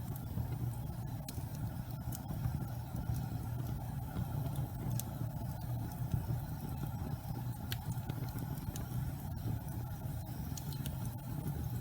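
Fire burning in a fireplace: a steady low rumble of flame, with small sharp crackles scattered through it.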